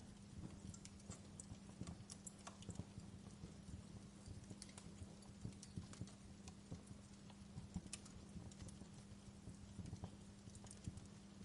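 Wood fire crackling in a fireplace, with irregular small pops and snaps over a steady low hum.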